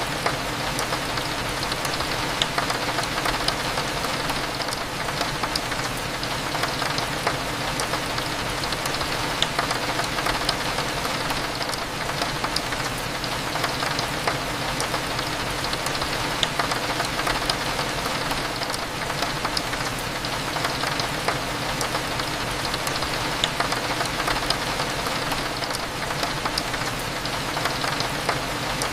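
Steady rain on a window glass, a continuous hiss dotted with many small drop ticks, over the low, steady hum of a cafe.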